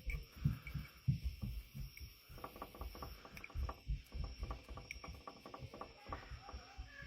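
Hands working a coarse pine bark and perlite soil mix around a plant's roots in a small pot: irregular low bumps and rustling, with a run of fine crackles in the middle.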